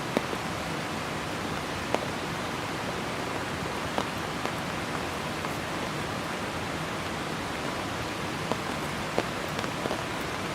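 Heavy rain falling steadily, a dense even hiss. A few louder single drops land close by now and then, each a sharp tap.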